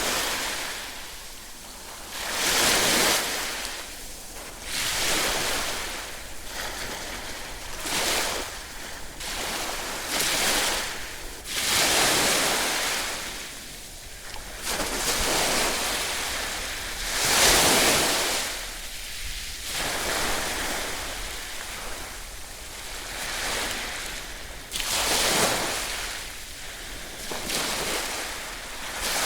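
Ocean waves breaking in a continuous series, one swell of rushing hiss about every two to three seconds, each rising and then falling away.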